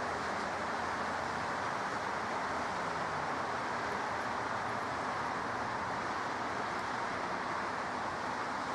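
Steady, even rushing roar of jet aircraft engines, holding at one level with no build-up or fade.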